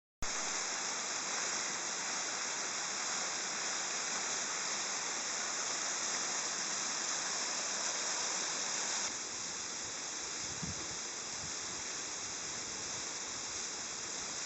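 Waterfall pouring: a steady rush of falling water that starts suddenly just after the start and drops slightly in level about nine seconds in.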